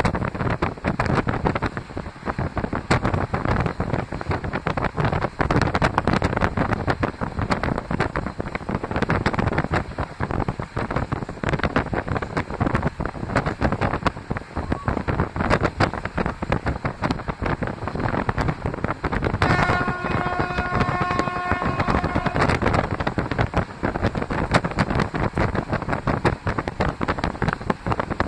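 Running noise of a moving double-decker passenger train with wind rushing and buffeting the microphone. About twenty seconds in, a horn sounds one steady note for about three seconds.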